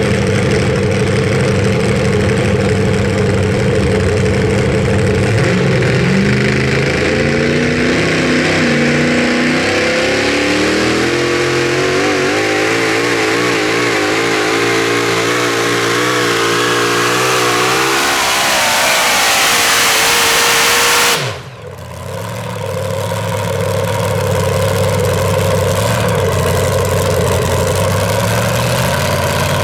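Super modified four-wheel-drive pulling truck engine at full throttle under load, its pitch climbing steadily for about twelve seconds with a rising hiss on top. The sound cuts off abruptly about two-thirds of the way through, then a pulling-truck engine runs again at a lower, fairly steady pitch.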